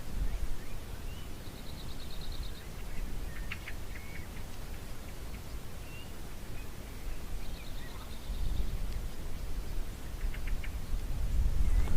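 Forest ambience with scattered songbird calls: short chirps and, twice, a brief rapid high trill, over a steady low rumble.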